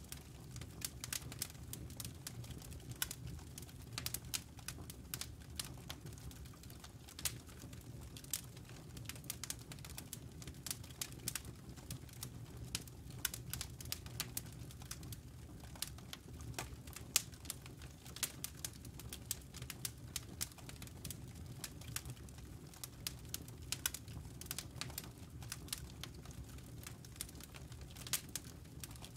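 Wood fire crackling: irregular sharp pops and snaps of burning logs, several a second, over a steady low rumble.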